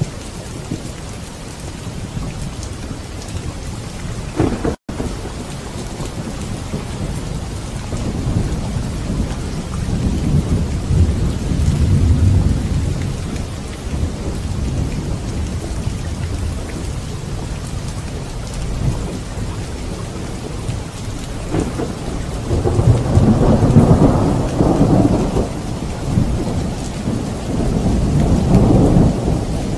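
Steady rain with low rolling thunder, the rumble swelling about ten seconds in and again through the last third. A split-second gap in the sound comes about five seconds in.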